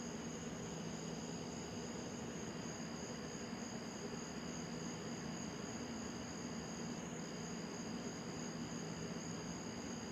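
Night-time crickets trilling steadily in two high pitches, one briefly dropping out about seven seconds in. A faint hiss and low hum lie underneath.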